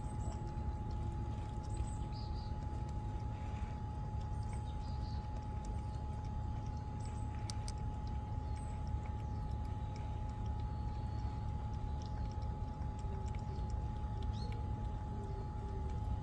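Steady low rumble with a constant hum tone, and faint scattered small ticks and chirps.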